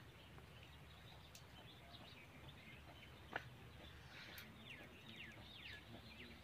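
Faint bird chirps over a low background hum. Four short, quick chirps fall in pitch about two-thirds of the way in, and a single sharp click comes a little after the halfway mark.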